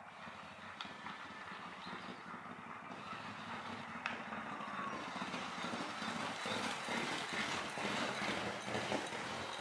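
Two racehorses galloping on a turf track in a trackwork workout, their hoofbeats growing steadily louder as they approach and pass close by near the end.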